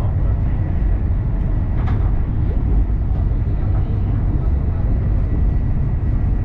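AVE high-speed train running with a steady low rumble, with a faint steady high tone over it.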